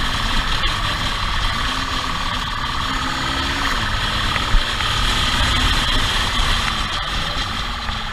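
A vehicle engine running, its pitch rising and falling several times as it speeds up and eases off, over a steady high whine. A single short thump comes about halfway through.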